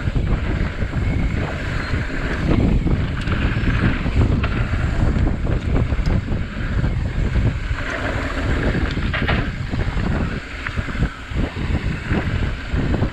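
Wind rushing over the microphone during a fast mountain-bike descent, with a steady rumble of tyres over the dirt trail and short clattering knocks from the bike over bumps.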